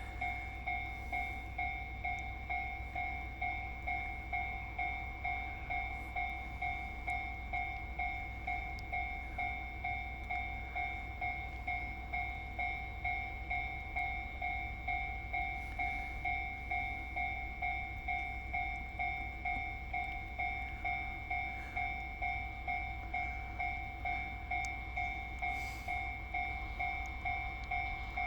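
Railway level-crossing warning bell ringing steadily at about two strokes a second, over a low steady rumble.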